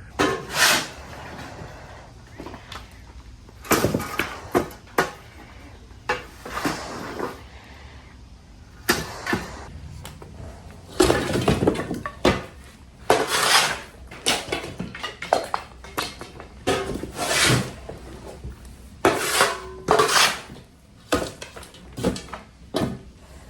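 Demolished ceiling debris and insulation being cleared off the floor: irregular scraping strokes and clatters of broken material being swept and shovelled up.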